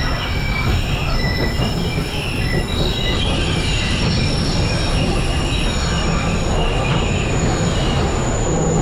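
Double-decker sugar-cane railway train running along the track, heard from aboard: a steady rumble of the cars, with high thin wheel squeals on the rails that come and go.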